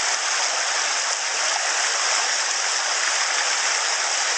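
A small stony stream flowing: a steady rushing hiss of water running over stones.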